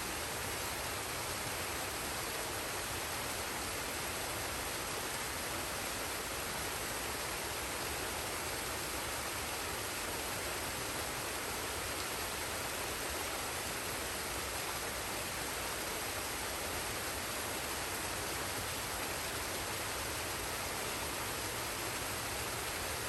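Waterfall and stream water running steadily: an even rush of water with no breaks or other events.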